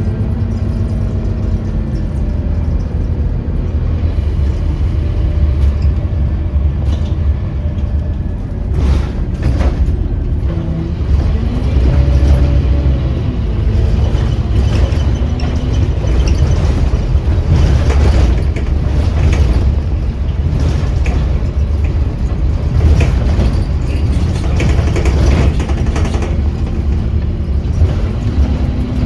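Scania Omnicity bus heard from inside the cabin on the move: a steady, loud low engine and road rumble with frequent interior rattles, the engine note shifting up and down in pitch several times.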